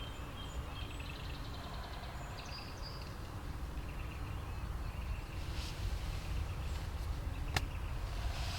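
Small songbirds singing and trilling over a steady low rumble of wind on the microphone, with one sharp click near the end.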